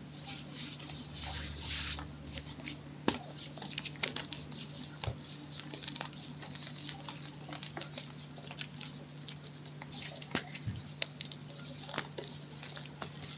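Close-miked crunching and crumbling of chalk: a dense run of small, irregular crackles and snaps, with a louder snap about three seconds in and another about eleven seconds in.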